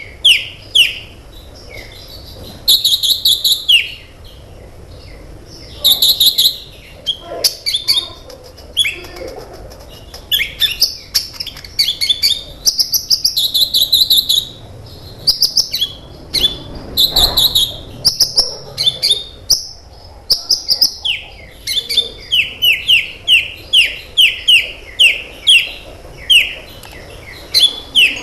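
Kolibri ninja sunbird singing in rapid, high chirps and short falling notes, ending in a fast run of evenly repeated downward-sliding notes.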